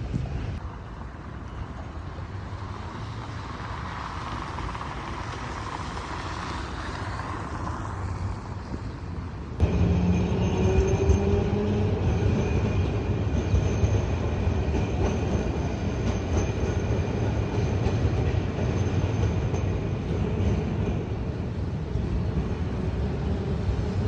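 City street sound dominated by a rail vehicle running: a swell of running noise in the first part. About ten seconds in it jumps suddenly louder, with a steady high whine over a low rumble.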